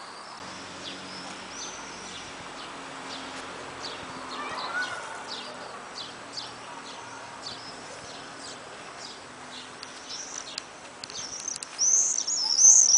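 Birds calling outdoors: a steady series of short, high, falling chirps that grows into a loud burst of chirping near the end.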